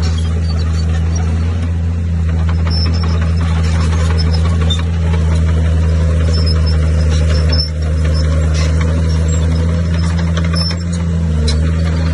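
Bulldozer's diesel engine running steadily under load, with a brief dip about eight seconds in and a short rise in engine pitch near the end.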